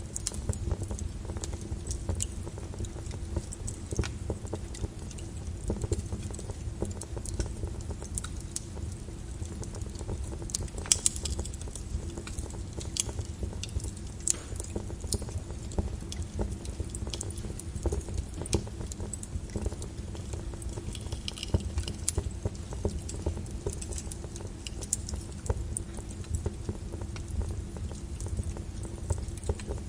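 Flowing lava crackling and clinking irregularly over a steady low rumble.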